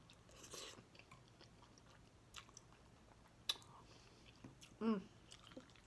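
Quiet close-up chewing of a mouthful of creamy shrimp Alfredo pasta: soft wet mouth smacks and clicks, with one sharper click about three and a half seconds in. Near the end comes a brief hum of the voice.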